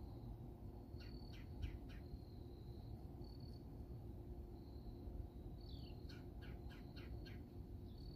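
A bird calling, faint: a thin high whistle and two quick runs of sharp chips, one about a second in and a longer one about six seconds in. A low steady outdoor rumble sits underneath.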